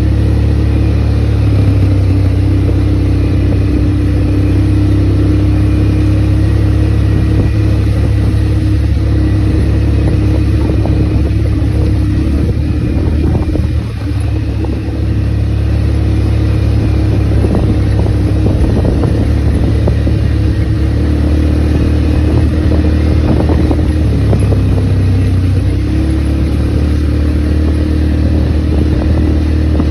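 ATV engine running steadily while riding, its note easing off briefly about halfway through and shifting again near the end.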